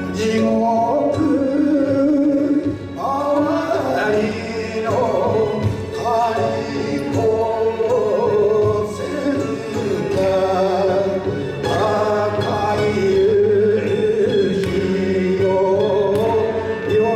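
A solo singer sings with vibrato, with instrumental accompaniment.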